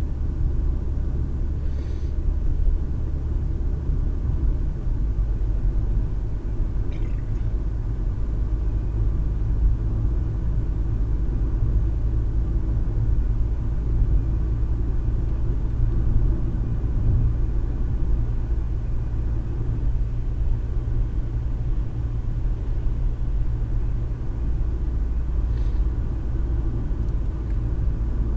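Steady low engine and road rumble of a moving car, heard inside the cabin. The low note shifts about five seconds in, and a few faint ticks sound over it.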